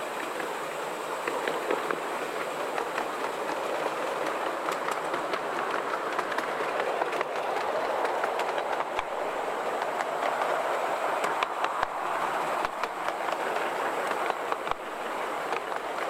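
Miniature steam train running along the track, heard from a passenger car: a steady rumble of wheels on rail with scattered sharp clicks from the rail joints.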